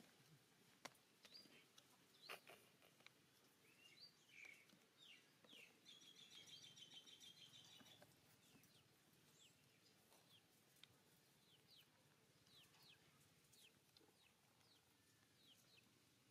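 Faint outdoor bird calls: short, high, falling chirps scattered throughout, with a quick rattling trill about six seconds in. A couple of soft clicks come in the first few seconds.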